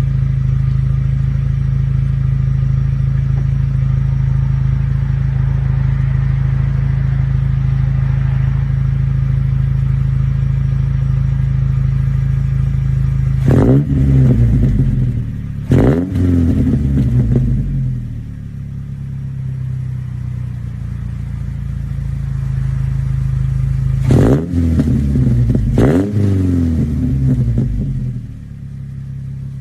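Car exhaust through a MagnaFlow 11236 performance muffler, idling steadily at first. Then the engine is revved in two pairs of quick throttle blips about ten seconds apart, each rising sharply and falling back to idle.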